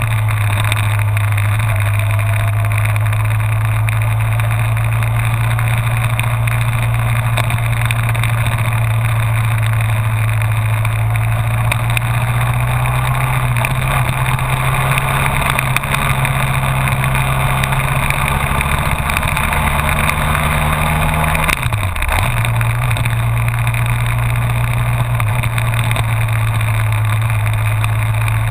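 Honda VFR1200F's V4 engine running steadily under way, its pitch creeping up a little twice, then dropping sharply and coming back about 22 seconds in.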